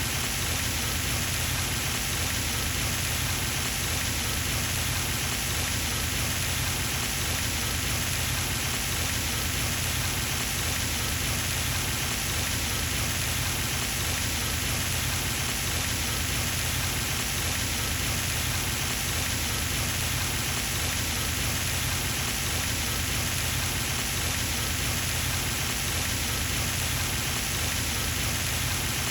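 Pond fountain spray splashing steadily back onto the water surface, a continuous even rushing patter like heavy rain.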